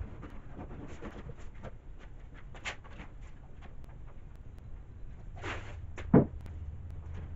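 Scattered light clicks and knocks, with a short burst of noise about five and a half seconds in and one sharp, loud knock just after six seconds.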